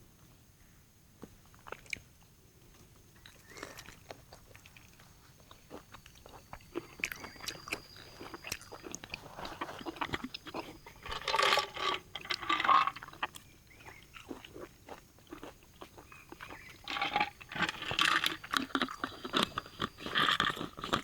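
Close-up chewing and crunching of grilled pork, a few crisp bites at first, then dense loud crunching about halfway through and again near the end.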